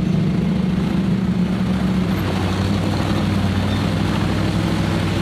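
A Jeep's engine running steadily under load at a constant pitch as the vehicle ploughs through deep mud.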